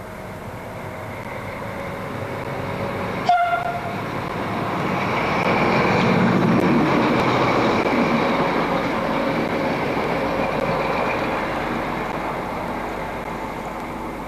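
FS D345 diesel locomotive and its train passing on the line: the running noise grows louder, peaks a few seconds after the middle, then slowly fades. A short horn toot sounds about three seconds in.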